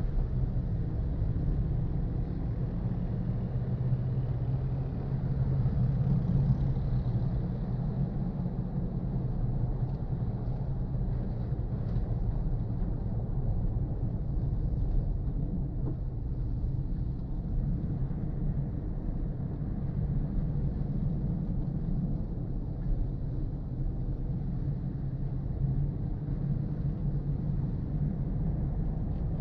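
Car driving at a steady pace: continuous low rumble of road and engine noise.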